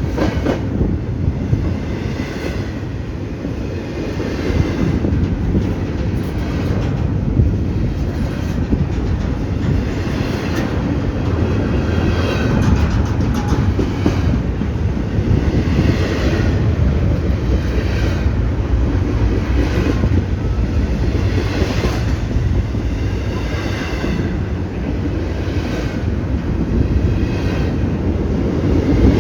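Freight train of empty intermodal cars rolling past: a steady rumble, with the clack of wheels over rail joints coming roughly every second or two.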